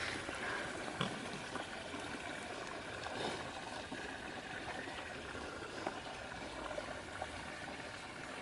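Water running steadily, with scattered small clicks and splashes.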